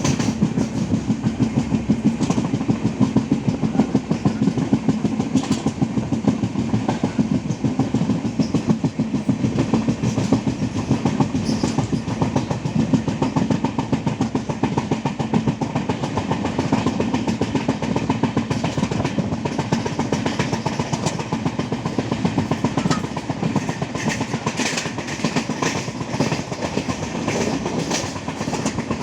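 Train running on the rails, heard from aboard a coach: a steady rumble with continuous rapid clicking and rattling of the wheels over the track.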